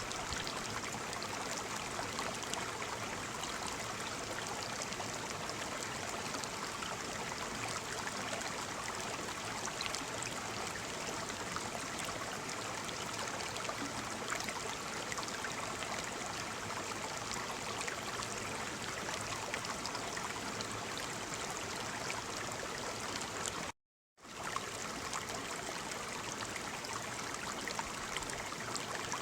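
Waterfall: a steady, even rush of falling water. Near the end it cuts out to silence for about half a second and then comes straight back.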